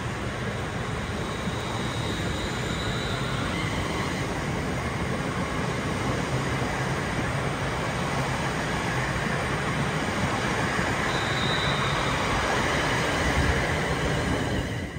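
A train running on the rails: a steady rumble and rush of wheels, with a high whine that comes and goes twice. The sound cuts off suddenly at the end.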